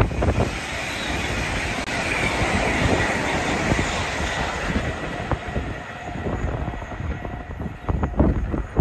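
LNER Azuma high-speed passenger train passing at speed: a steady rush of wheel and air noise with a faint high whine, fading after about six seconds as it pulls away. Wind buffets the microphone near the end.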